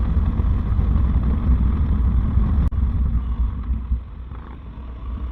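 Harley-Davidson V-twin motorcycle engine and exhaust running at road speed, a steady low rumble mixed with wind noise on the microphone; the sound drops in level about four seconds in, with a brief click a little before.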